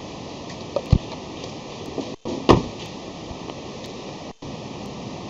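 Steady hiss with a few dull knocks; the loudest, a sharp knock, comes about two and a half seconds in.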